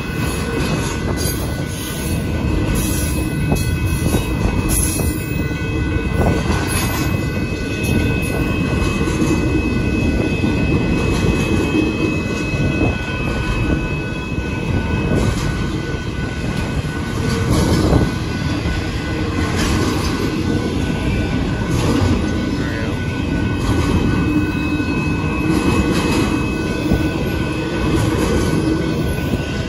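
Double-stack intermodal freight cars of a long train rolling past a grade crossing: a steady rumble and rattle of steel wheels on the rails, with a thin, steady high squeal running through it.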